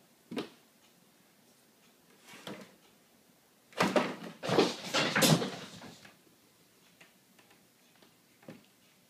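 A single knock, another soft one, then about two seconds of clattering knocks and bumps, and one last knock near the end.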